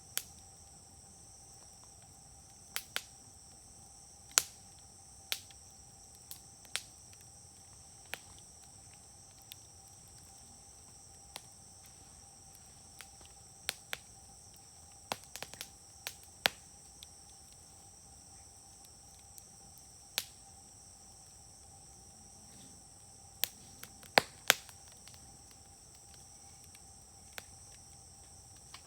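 Wood fire crackling, with sharp irregular pops from the burning wood, a few much louder than the rest. Under it, a steady high chirring of insects.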